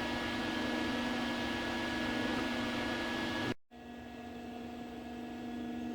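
Steady electrical hum with several constant tones, like a running machine or fan. It cuts out abruptly about three and a half seconds in and returns a little quieter.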